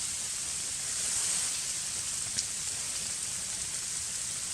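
Heavy, wet snow falling on a tarp shelter and the surrounding forest, a steady even hiss, with one faint tick about halfway through.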